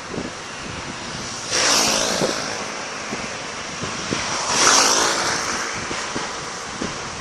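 Fireworks going off: two bursts about three seconds apart, each a sharp bang with a hissing spray that fades over about a second, and scattered small crackles in between.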